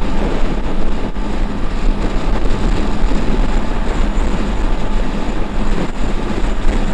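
Heavy wind buffeting on the microphone of a motorcycle riding at highway speed in a strong crosswind, over the steady running of the Honda XRE 300's single-cylinder engine.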